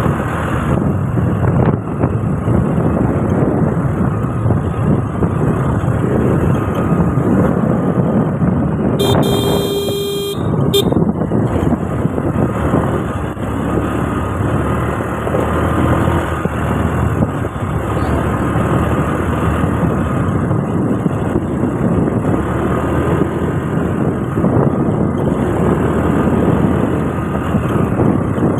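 Motorcycle riding along, its engine and rushing air making a steady loud noise. About nine seconds in, a vehicle horn honks once for about a second and a half.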